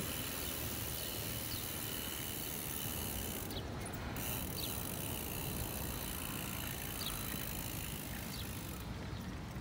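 Bicycle ride on paved walkways: a steady low rumble of tyres and wind on the microphone, with faint high chirps now and then.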